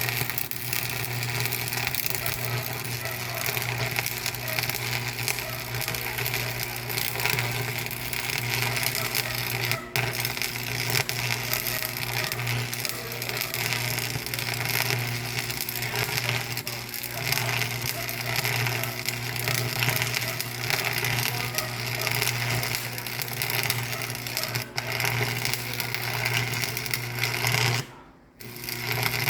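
A machine running steadily: a constant low hum under an even mechanical noise. It cuts out briefly near the end and comes back.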